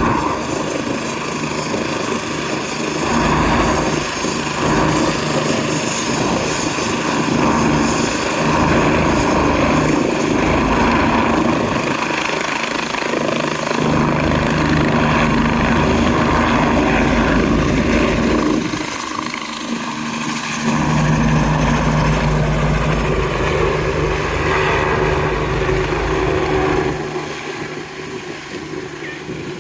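Rescue helicopter running close by: turbine engine whine with rotor noise, a thin high whine rising about a third of the way in and then holding steady, easing off slightly near the end.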